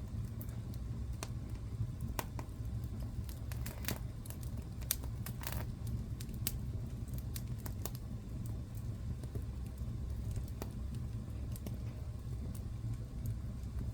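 Fire in a fireplace crackling: sharp pops and snaps scattered over a steady low rumble, coming thickest a few seconds in.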